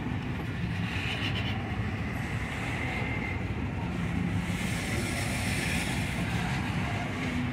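Freight wagons (flatcars loaded with steel coils) rolling slowly past on the rails, a steady rumble of steel wheels on track.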